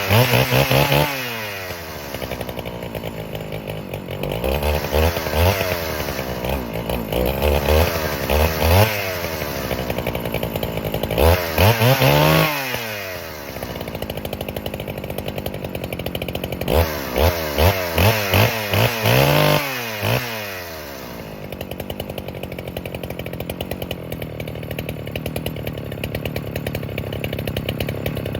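NeoTec NH895 two-stroke chainsaw, a Husqvarna 395XP clone, running on its first start-up: it is revved in short throttle blips several times, each time dropping back to idle, then idles steadily for the last several seconds.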